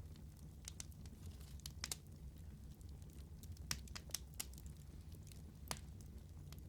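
Wood fire burning in a fireplace: a low steady rumble of flame with irregular sharp crackles and pops, a few louder snaps scattered through.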